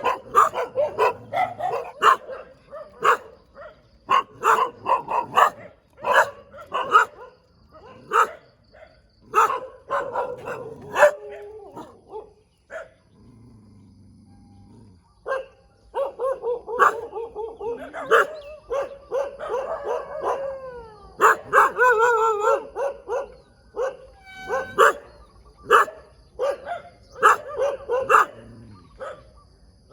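Dogs barking over and over in quick, overlapping barks, with a short lull about halfway through and some longer, wavering howl-like calls a little later.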